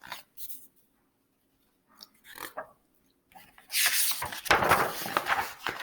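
Paper pages of a picture book being handled and turned: a few short, soft rustles, then a louder rustle of paper lasting about two seconds.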